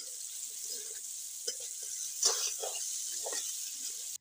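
Chicken pieces frying in oil in a pan, sizzling steadily as they are stirred, with several louder scrapes of the spatula against the pan in the second half.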